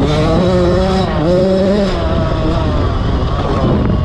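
Dirt bike engine revving, its pitch climbing and dipping with the throttle. The strongest low tone drops out about two seconds in, leaving the engine noise lower.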